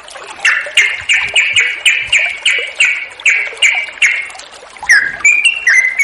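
Yellow-vented bulbul (trucukan) singing a long run of repeated bubbly notes, about three a second, then after a brief pause starting another phrase near the end.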